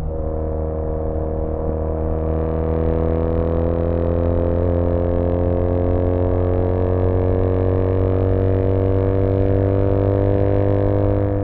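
2013 Triumph Bonneville T100's air-cooled 865 cc parallel-twin engine, with British Customs Sleeper Pro exhaust, pulling steadily under load. Its note climbs slowly as the revs rise, then drops suddenly near the end.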